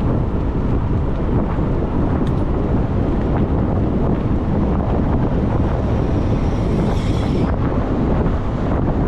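Wind buffeting a bike-mounted camera's microphone while riding, a steady loud low rumble. A faint high squeal sounds briefly about seven seconds in.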